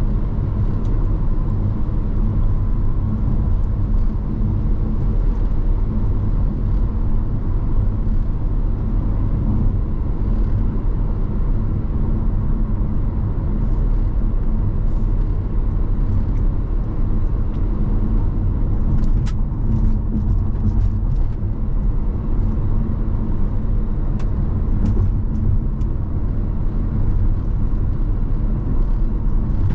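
A car being driven: a steady low rumble of engine and tyre noise on the road, with a few faint ticks here and there.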